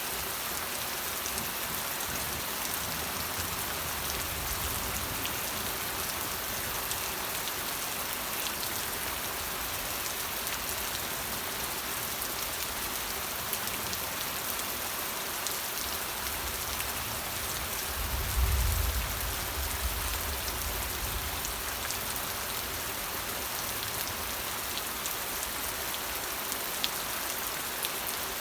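Steady rain falling, an even hiss of drops with a few sharper drip ticks. A brief low rumble swells and fades about two-thirds of the way through.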